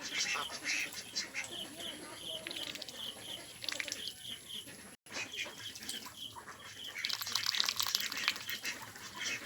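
A group of ducks calling and quacking, with a quick run of short, evenly spaced high chirps. The sound cuts out for an instant about halfway, and the chatter and crackle grow louder near the end.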